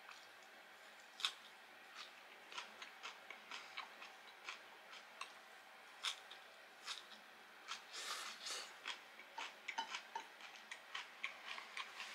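Chewing of crisp breaded fried food close to the microphone: irregular sharp crunches, one to a few a second, with a denser run of crunching about eight seconds in.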